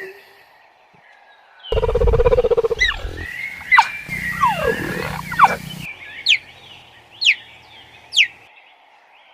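A wild animal's loud, low pulsing growl, followed by several sharp whistled calls that fall in pitch, the last three about a second apart.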